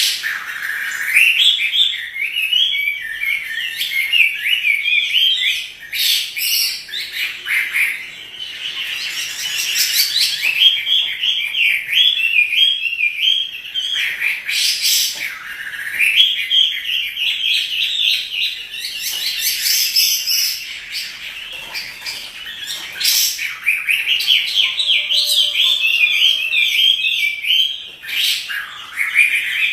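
Chinese hwamei singing in full, persistent song. It is a loud, fast, varied warbling of quick rising and falling notes, broken by short pauses, with a few sharp clicks mixed in.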